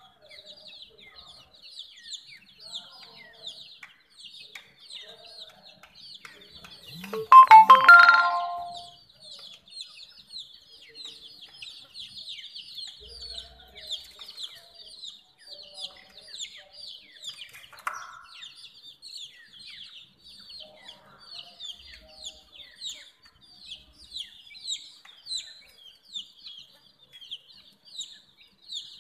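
A brood of baby chicks peeping continuously, a dense stream of rapid high chirps, with soft low clucks now and then. About seven seconds in, a loud electronic tone with several pitches sounds for a second or so.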